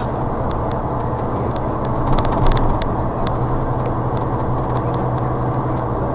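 Moving car heard from inside the cabin: a steady low engine and road drone, with scattered light ticks.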